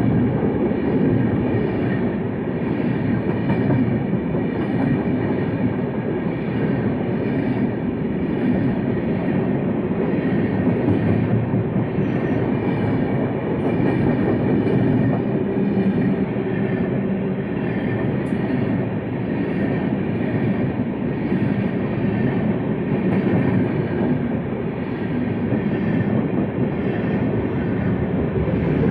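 Passenger train coach running on the rails: a steady rumble and rattle of wheels and carriage, without a break.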